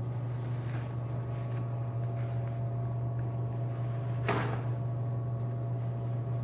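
A steady low electrical hum with faint higher tones, and a brief swish about four seconds in, with a few faint ticks.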